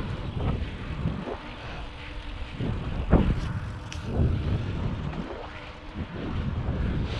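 Wind buffeting the microphone of a moving bicycle-mounted or handheld camera: an uneven low rumble that swells and fades in gusts, with a few short knocks about three to four seconds in.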